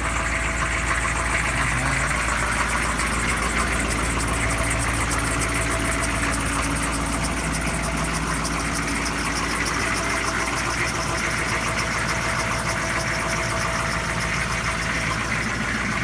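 1998 GMC K2500's 6.5-litre turbo diesel V8 idling steadily, with a squeaky fan belt.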